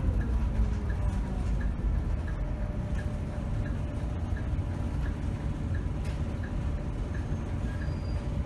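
Scania K270 city bus's diesel engine running with a steady low rumble, heard from the cab, while the turn-signal indicator ticks evenly, a little under two ticks a second.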